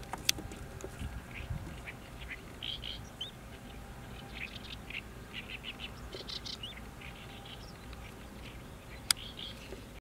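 Birds giving many short, scattered chirps and calls, some with brief rising notes, over a low outdoor rumble. Two sharp clicks stand out, one just after the start and a louder one about nine seconds in.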